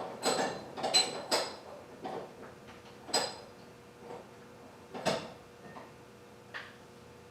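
Metal hand tools clinking and knocking against engine parts: about half a dozen sharp, ringing clinks at irregular intervals, most of them in the first few seconds.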